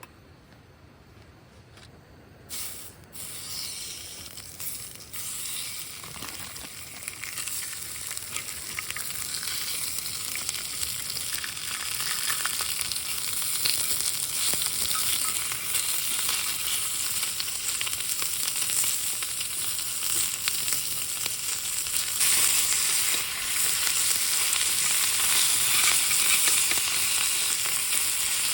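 Food frying in a hot pan, sizzling and crackling. The sizzle starts a couple of seconds in, swells steadily, and grows louder again about three quarters of the way through.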